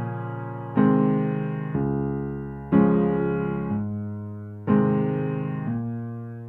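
Slow, gentle keyboard music: soft electric-piano chords struck about every two seconds, each left to ring and fade.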